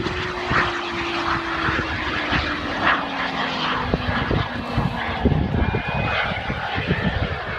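Sonex light aircraft's propeller engine running as the plane flies past, its note falling steadily in pitch over about five seconds, with wind buffeting the microphone.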